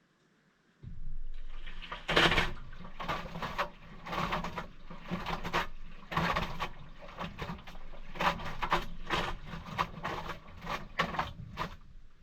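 Maytag washing machine starting its wash action: the motor hum comes on suddenly about a second in, then water and towels slosh in repeated surges, about one or two a second, until the motion stops near the end.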